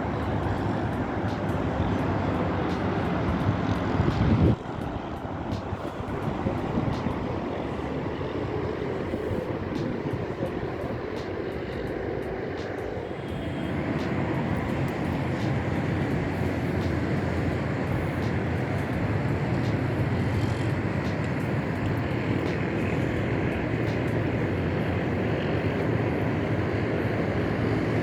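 Steady roar of road traffic from the highway, with an abrupt drop in level about four and a half seconds in, after which the steady traffic noise continues.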